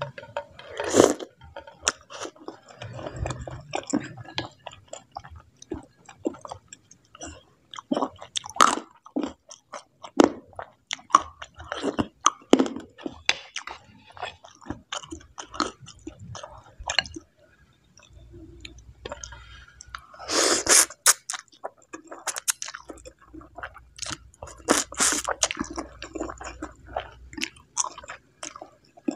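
Close-miked chewing and biting of bakso aci (chewy tapioca meatballs) and instant noodles in broth: a steady run of wet mouth clicks and smacks, with a few louder bursts, the loudest about two-thirds of the way in.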